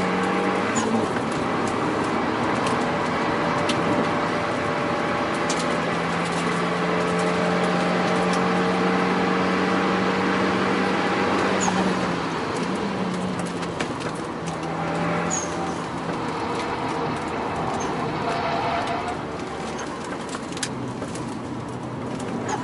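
Renault Mégane RS 225's turbocharged 2.0-litre four-cylinder, with a Milltek downpipe and cat-back exhaust, running hard on track at a steady engine note for about twelve seconds. The note then wavers and drops, and the sound gets quieter.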